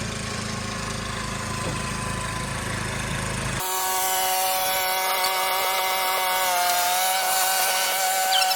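Chainsaw cutting wood. A steady low engine hum gives way abruptly, about three and a half seconds in, to a higher whine with a hissing edge, and the pitch sags partway through as the chain bites.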